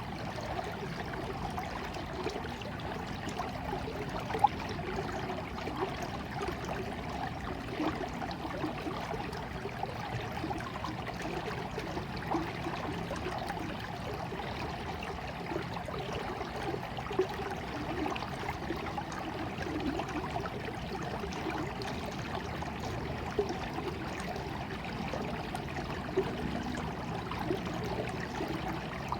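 Small stream of water running and trickling steadily, with lots of small, irregular splashes and gurgles.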